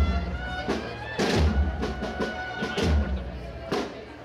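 Holy Week procession band drums: deep bass drum strokes about every second and a half, with sharper drum hits between them, over held instrument notes.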